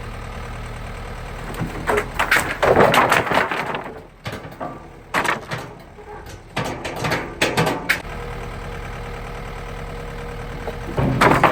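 John Deere loader tractor engine idling steadily, broken by three spells of loud clattering and knocking as broken fence wood is handled: about two seconds in, again from about five to eight seconds, and once more near the end.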